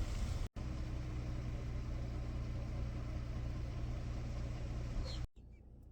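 A minivan's engine running with a steady low hum. The sound cuts out for an instant about half a second in, then drops to a faint hiss near the end.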